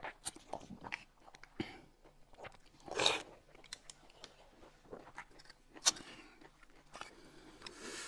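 Eating sounds: people biting and chewing food, with scattered small smacks and clicks. There is a louder, longer burst about three seconds in and a sharp click a little before six seconds.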